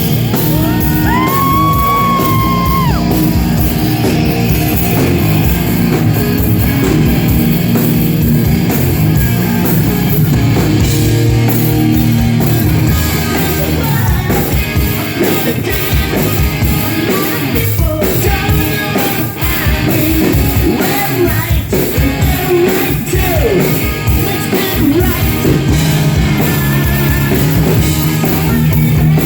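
Glam metal band playing live: electric guitars, bass and drums under a shouted rock vocal, with a high note held for about two seconds near the start, echoing in a large hall.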